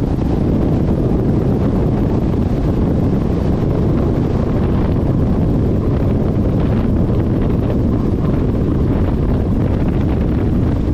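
Cessna 175C's geared Continental GO-300 engine and propeller running steadily, heard from inside the cabin as an even low rushing drone.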